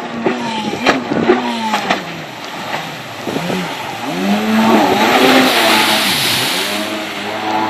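Kawasaki 750 SXi stand-up jet ski's two-stroke engine revving up and down over and over, its pitch rising and falling several times. There are a few sharp knocks in the first second and a half, and a broad hiss from about five to seven seconds in.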